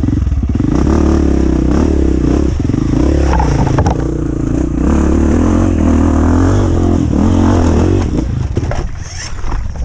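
Off-road dirt bike engine revving loudly and unevenly, its pitch rising and falling, then dropping away about eight seconds in.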